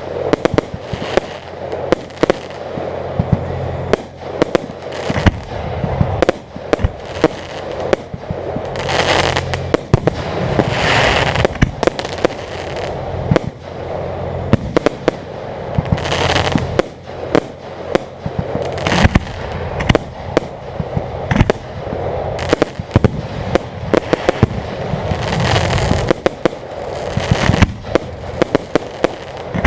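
Aerial fireworks going off in a continuous run of sharp crackling and popping, with louder bursts every few seconds.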